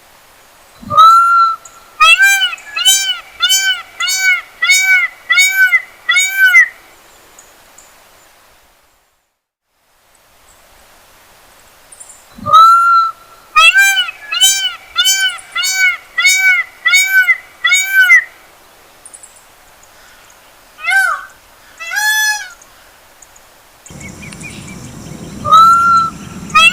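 Peacock (Indian peafowl) calling loudly in two bouts, each a single long call followed by a quick run of nine or ten short, rising-and-falling honking calls, then a few more scattered calls. A steady low rushing noise comes in near the end under the calls.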